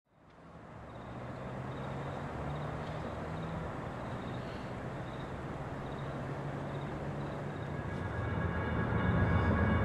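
Train approaching: a steady diesel locomotive rumble that fades in and grows louder near the end, where several high steady tones join in.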